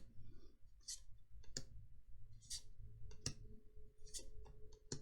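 Magic: The Gathering playing cards being handled: brief swishes of cards sliding over one another and scattered light clicks.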